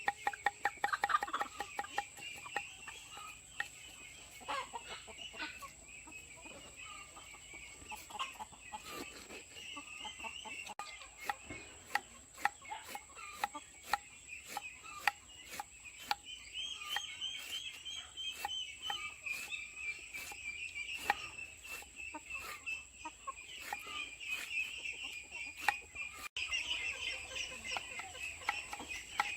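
Hens clucking on and off over a steady high-pitched background, with many short clicks throughout.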